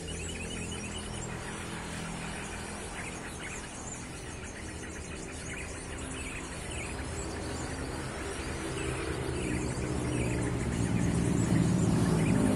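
Small birds chirping and calling in quick short notes over the steady hum of road traffic. A vehicle's engine noise swells and grows louder near the end.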